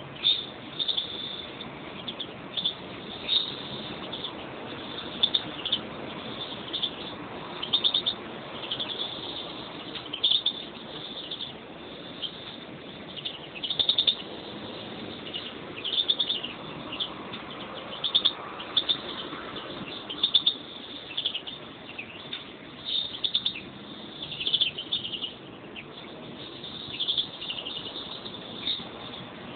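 European greenfinches chirping and twittering in short, bright phrases that recur every second or two.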